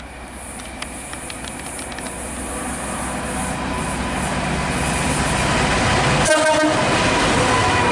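Class 66 diesel locomotive hauling a freight train approaching, its engine and wheels growing steadily louder, with a short horn blast about six seconds in.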